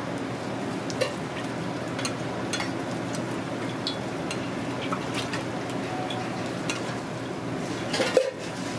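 Hotteok frying in shallow oil on a flat griddle, a steady sizzle, while a brass hotteok press and a metal spatula press them flat with scattered light clicks and taps on the griddle. A louder clatter of metal comes near the end.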